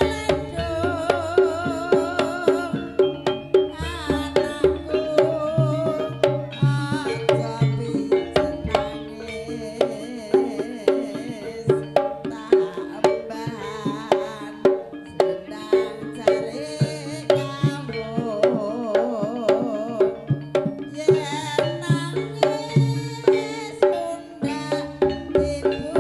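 Traditional Javanese dance-troupe music: hand drums (kendang) beating a steady, driving rhythm of a few strokes a second under sustained pitched instrument tones and a wavering melody line.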